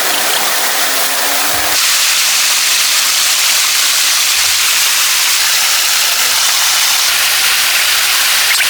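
Steady, loud rushing of falling water, growing a little brighter about two seconds in.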